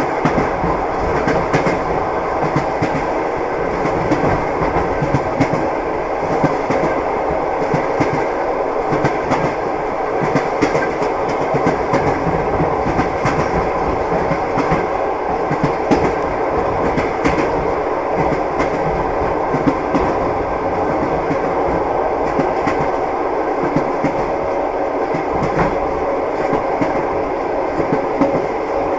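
Train wheels clicking over rail joints amid the steady rumble of a moving railway carriage, running on evenly without a break.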